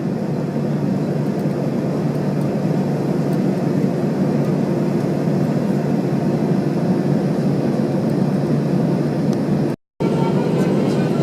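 Steady cabin rumble of an Airbus A321-200 taxiing after landing: engines at idle and cabin air running. The sound cuts out completely for a moment near the end.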